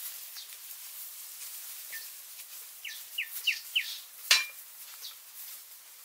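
Forest ambience of bird calls over a steady high hiss, with a run of four quick falling chirps about three seconds in. A single sharp click just after four seconds is the loudest sound.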